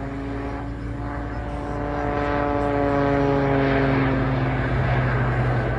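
Propeller-driven aerobatic display aircraft's engine. Its tones slide slowly lower in pitch, and it grows louder around halfway through.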